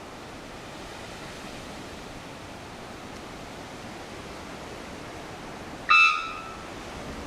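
Steady outdoor noise, an even rush like wind or running water. About six seconds in, one short, loud pitched call or honk cuts through.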